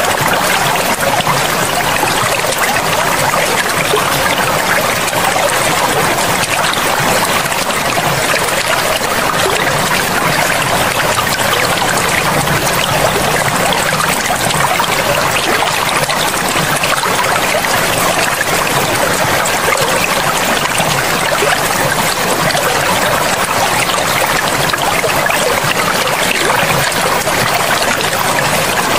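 A forest river flowing steadily, as a continuous even sound of running and trickling water.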